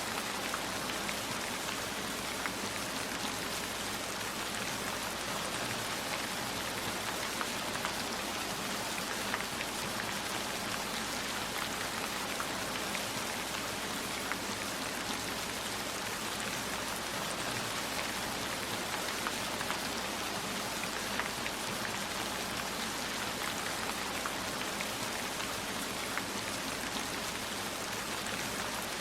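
Steady rain falling, with scattered sharp ticks of individual drops striking.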